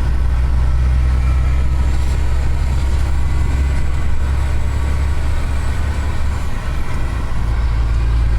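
Steady low drone of a road vehicle on the move, engine and tyre noise running evenly.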